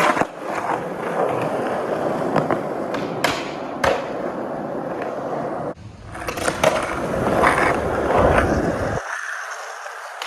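Skateboard wheels rolling on pavement, with two sharp clacks of the board a little over three seconds in.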